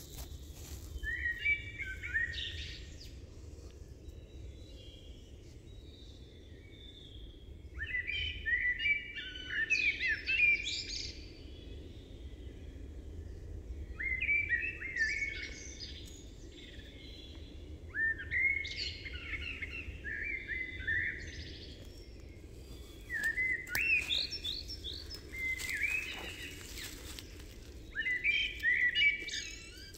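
A songbird singing a short phrase of stepped, chirping notes lasting a couple of seconds, repeated about every five seconds.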